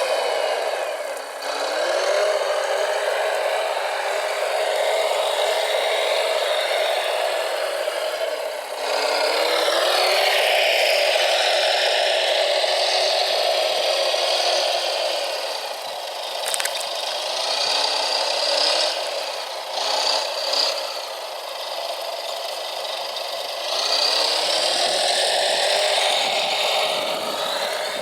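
Small electric motors and gearboxes of radio-controlled construction machines whining as they work. The pitch drops and rises again several times as the machines slow and pick up speed.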